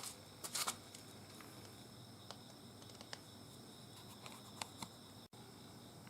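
Faint, scattered small clicks and light knocks, a short cluster of them about half a second in, over a steady low hiss with a faint high whine.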